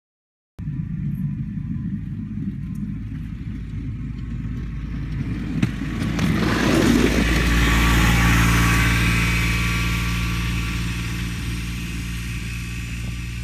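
Kubota RTV 1100 utility vehicle's three-cylinder diesel engine running, starting abruptly about half a second in. It grows louder, with rising hiss, around the middle, then slowly eases off.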